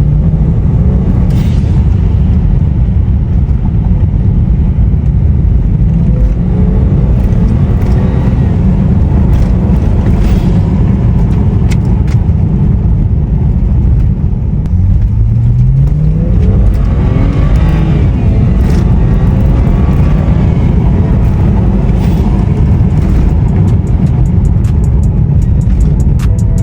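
BMW 335i's twin-turbo inline-six driving under way, with heavy road and wind noise. About halfway through the engine revs up, its pitch rising over a second or so as the car accelerates.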